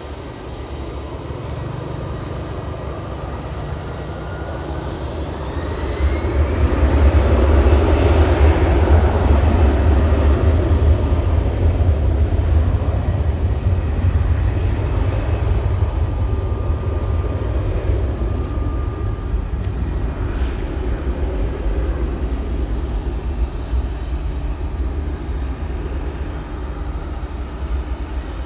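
Airbus A321-211 airliner's CFM56 turbofan engines at takeoff thrust as the jet passes. A whine rises in pitch over the first few seconds while a deep rumble builds to a peak about eight seconds in, then slowly fades.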